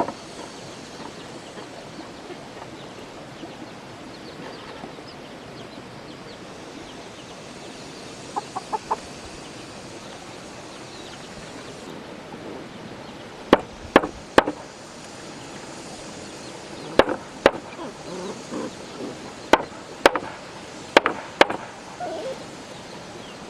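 Farm fowl clucking now and then over a steady outdoor background. About halfway through, a series of sharp knocks starts, coming singly and in quick pairs, and these are the loudest sounds.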